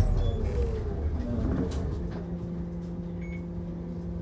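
Mitsubishi Fuso Aerostar Eco Hybrid bus heard from inside as it slows: a whine falls in pitch and the running noise dies away, then about two seconds in it settles into a steady low hum.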